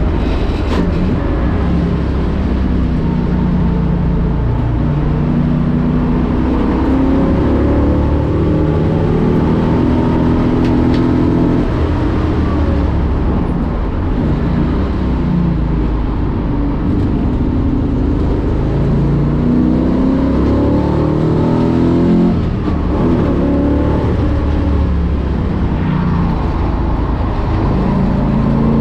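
1965 Ford Mustang race car's V8 engine at speed on track. Its pitch climbs hard through each gear and drops at the gear changes and under braking, again and again.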